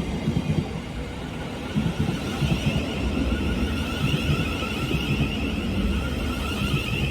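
Electric multiple-unit train running through the station: a low rumble with a steady high-pitched traction-motor whine that grows stronger from about two and a half seconds in.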